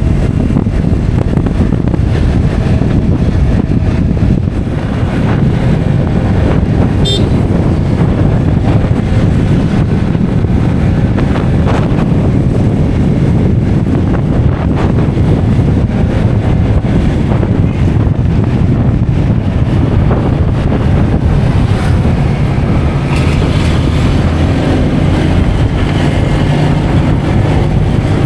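Road vehicle driving steadily along, its engine and road rumble mixed with wind buffeting the microphone.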